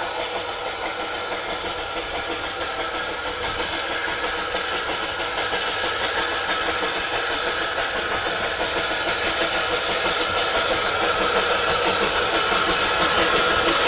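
Steam locomotive running with its exhaust beats coming in a fast, even rhythm, growing steadily louder as it approaches.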